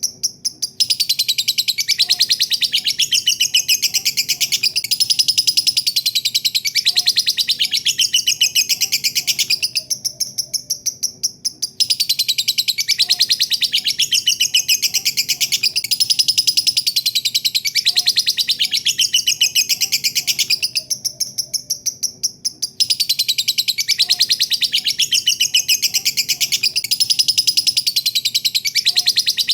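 Lovebird's long 'ngekek' song: a shrill, very rapid chattering trill in long unbroken runs of about nine seconds, easing briefly twice, around ten and twenty-one seconds in.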